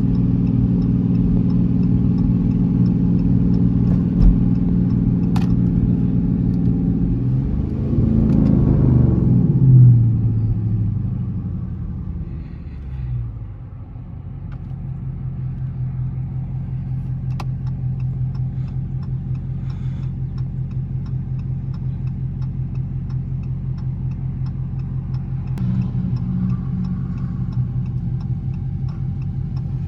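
Dodge Charger R/T's V8 engine heard while driving. It holds a steady note, briefly swells and changes pitch about eight to ten seconds in, then eases off to a lower, quieter steady drone, picking up again near the end.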